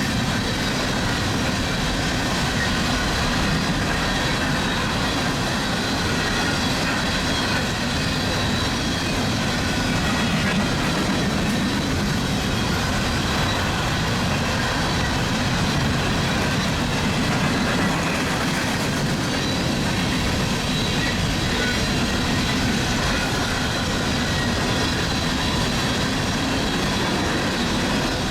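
Westbound empty coal train's cars rolling past on steel rails in a steady, unbroken run of wheel noise, with faint high steady tones above it.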